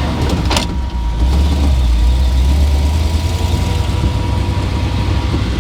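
1978 Jeep truck's engine running while the truck is driven, a low rumble that swells for a couple of seconds about a second in. A single sharp knock comes just before that.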